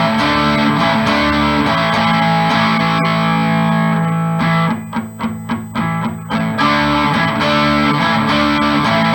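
A G&L Legacy Tribute electric guitar with a Seymour Duncan Little '59 mini humbucker in the bridge, played through an amp on the middle-and-bridge pickup setting. Chords ring out, with a run of short choppy strums about halfway through.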